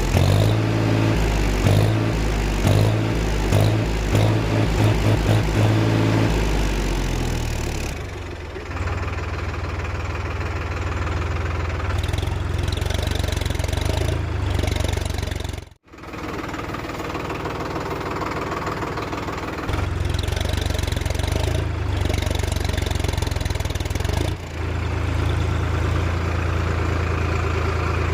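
Tractor diesel engine running and chugging, pulsing unevenly at first and then holding a steady idle, with the sound cutting out for an instant about midway.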